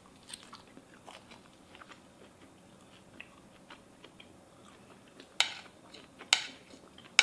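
A person chewing a mouthful of raw beef carpaccio with arugula, with faint small crunches. About five and six seconds in, a fork clinks sharply on the plate, twice.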